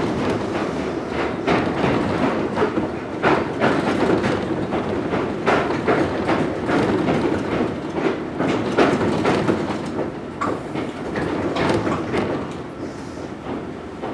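Interior running noise of a Mizuma Railway 1000 series electric train, heard from its motor car: a steady rumble with the wheels clacking and knocking over the track. It grows quieter in the last few seconds as the train slows toward the terminus.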